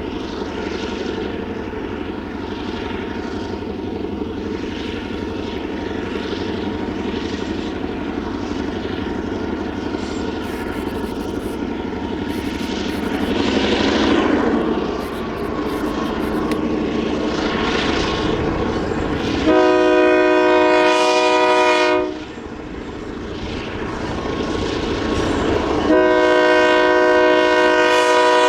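Diesel freight locomotive on a sugarcane train running with a steady engine rumble, then sounding its horn twice: a blast of about two and a half seconds, several notes at once, and a second blast starting near the end.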